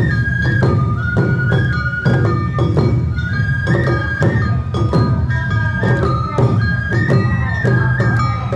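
Awa Odori festival band playing: a bamboo flute carries a melody in held, stepping notes over steady drum and percussion beats.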